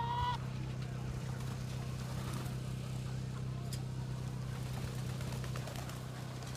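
Chickens calling faintly and sporadically over a steady low hum.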